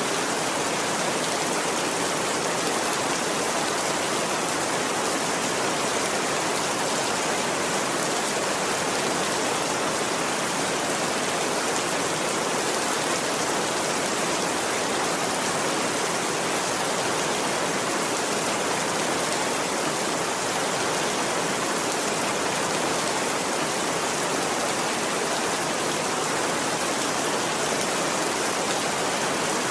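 Steady rain falling in a dense, even hiss that holds without change.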